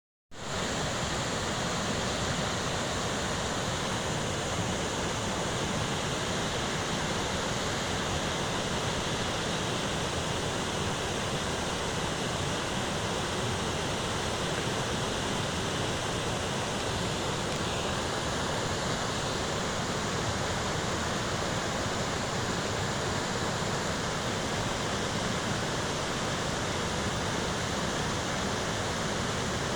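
Heavy rain falling, a steady, even hiss of rain with no let-up.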